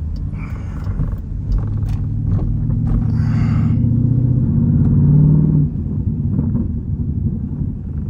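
Jeep Grand Cherokee Trackhawk's 6.2-litre V8, running without its supercharger, pulling under throttle: the engine note climbs steadily for about three seconds, then falls away suddenly past the middle as the throttle comes off, back to a low drone.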